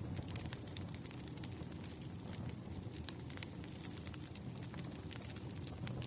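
Wood fire burning with a steady low rumble and irregular crackles and pops of burning logs.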